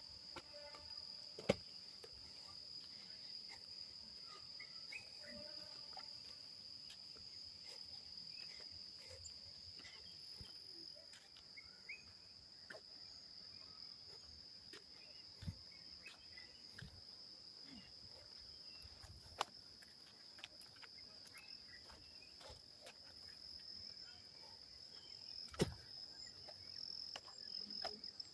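Insects chirring steadily at a high pitch, faint, with a few sharp clicks or knocks scattered through it.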